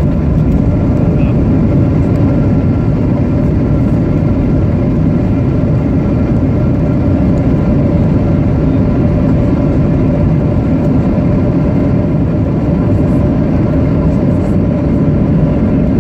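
Boeing 737-800 cabin noise: the steady drone of the CFM56 jet engines and rushing air, with a few faint steady tones over a heavy low rumble.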